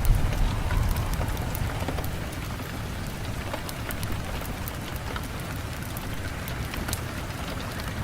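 Steady rain, with scattered sharp ticks of drops and a low rumble that is loudest in the first second and then settles.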